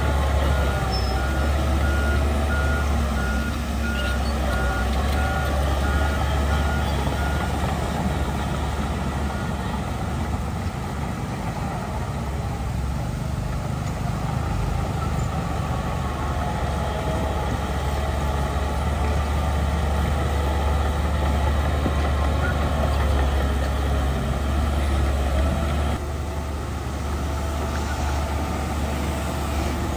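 Heavy diesel earthmoving machinery, a bulldozer and dump truck, running steadily with a deep engine rumble. A reversing alarm beeps at an even pace for the first several seconds, and the engine sound drops a little near the end.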